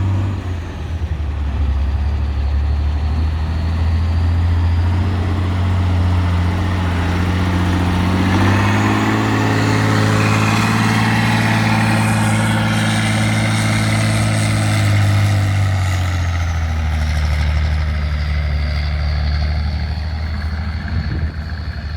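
Trial truck's engine working hard off-road. Its pitch climbs about eight seconds in, holds high, and drops back to a lower steady note around sixteen seconds.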